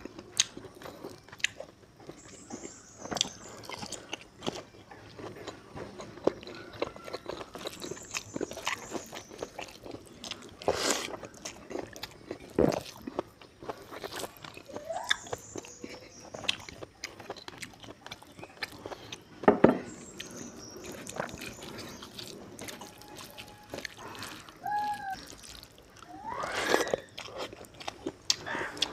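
Close-miked mouth sounds of a person eating rice and pork curry: chewing with wet lip smacks and clicks, mixed with the squish of fingers working rice on a metal plate. A few louder smacks stand out among the steady eating noises.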